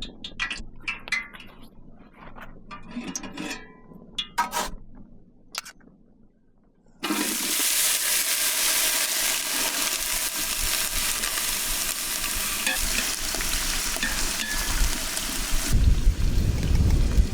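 A few light clinks and knocks of cooking utensils, then a steady, loud sizzle of food frying over a fire that starts abruptly about seven seconds in. Near the end a low rumble takes over.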